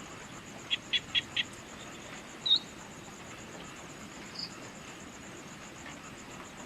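Evening outdoor ambience: a steady high-pitched insect trill over a soft background hiss, with birds calling. A quick run of four short chirps comes about a second in, a single sharper, louder call about halfway through, and a faint higher note shortly after.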